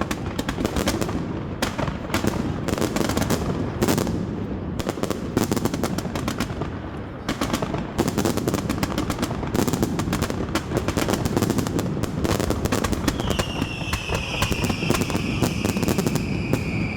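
Fireworks going off in a rapid, continuous barrage of bangs and crackles. About thirteen seconds in, a high whistle falling slowly in pitch sounds over the bangs for a few seconds.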